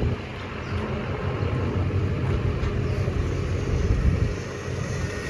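Low, rumbling wind and road noise from riding the electric minibike. There is no engine note, only a noisy low rumble that rises and falls in loudness.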